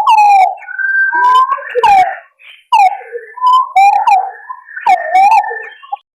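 Green pigeons calling: loud, overlapping whistled, warbling notes that rise and fall, in short phrases with a brief pause about two and a half seconds in.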